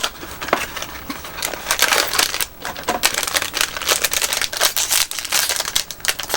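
Plastic candy packaging crinkling and crackling in irregular bursts as it is handled.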